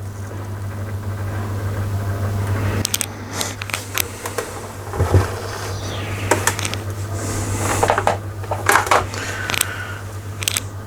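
Rexel LV250HS laminator running with a steady low motor hum as its rollers turn, drawing a sheet of paper through. From about three seconds in, paper rustles and clicks as the sheet is fed in and carried between the rollers.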